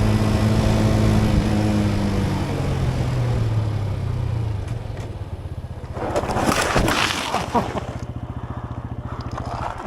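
Motorcycle engine whose pitch falls steadily as it slows over the first few seconds, settling to a low steady hum. About six seconds in, a short burst of noise with a few sharp clicks stands out.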